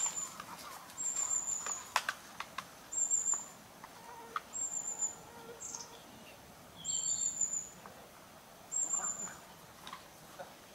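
A bird repeatedly gives a thin, very high call: a short, slightly falling note every one to two seconds. Faint taps and rustles sound underneath.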